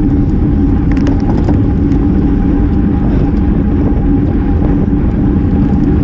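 Steady wind rush on the camera microphone and tyre and road noise from a road bike riding fast in a race group, with a few faint clicks.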